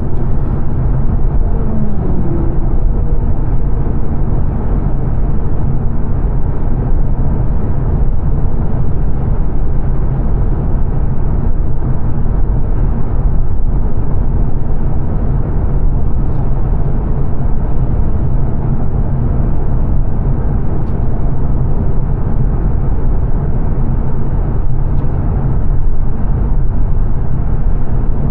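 Steady in-cabin road noise of a 2022 Mazda 3 saloon cruising on a fast dual carriageway: a low, even rumble of tyres and engine. A falling pitched tone fades out in the first couple of seconds.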